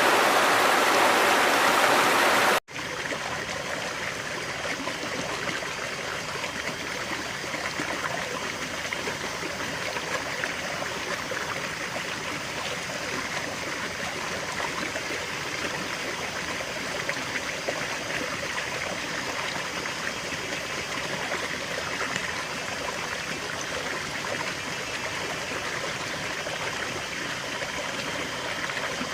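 River water flowing. A louder, fuller rush for the first couple of seconds cuts off abruptly. After a split-second gap, a steady, quieter stream flow with light gurgling carries on.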